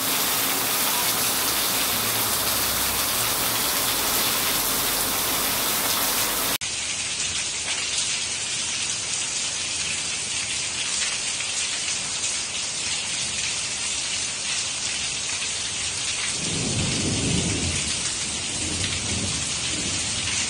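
Heavy rain falling steadily, with an abrupt change about six and a half seconds in to a second recording of rain pouring off a roof edge. About sixteen seconds in a low rumble of thunder swells for a couple of seconds and fades.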